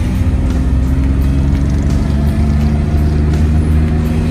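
Engine and road noise of a vehicle driving along a paved street, a steady low rumble with the engine's pitch shifting slightly.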